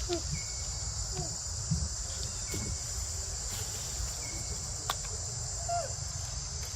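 Steady high-pitched buzz of an insect chorus, with a low rumble underneath, a few faint short squeaks and chirps, and a single click about five seconds in.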